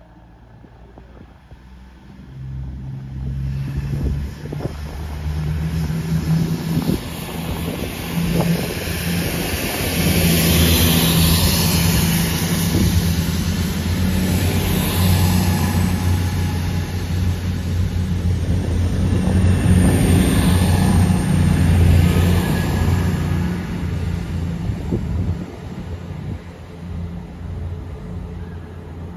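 East Midlands Railway Class 222 Meridian diesel multiple unit running along the platform, its underfloor diesel engines giving a low hum. The sound builds as the train approaches, is loudest while the carriages pass, and fades away near the end.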